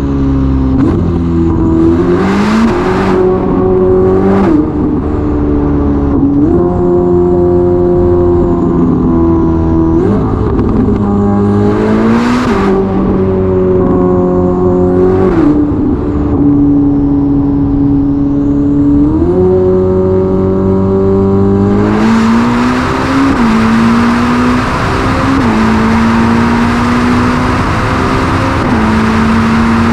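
Ferrari SF90's twin-turbo V8 with a Novitec sport exhaust, heard from the cabin, revving up and down through gear changes in a tunnel, with a few sharp cracks. About two-thirds in, a steady rush of wind joins as the car runs at high speed on the open autobahn, engine pitch slowly climbing.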